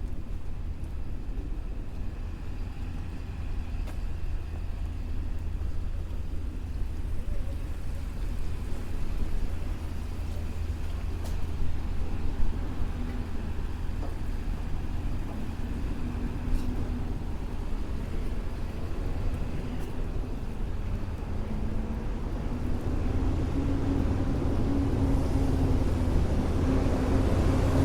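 City street traffic: a steady low rumble of vehicles passing, with one engine growing louder near the end as it approaches.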